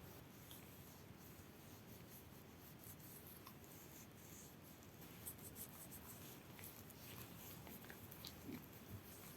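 Faint, scattered scratches and scrapes of a hand tool working jatoba hardwood, growing busier about halfway through.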